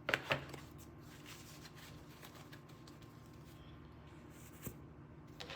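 Tarot cards being handled and shuffled: two sharp snaps right at the start, then soft scattered rustling and light clicks over a faint steady hum.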